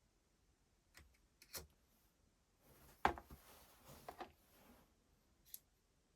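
A few sharp clicks and knocks of small hard parts or tools being handled, the loudest about three seconds in, amid a brief scraping.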